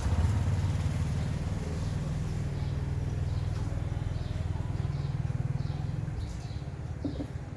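A steady low mechanical hum that fades out about six seconds in, with faint short chirps near the end.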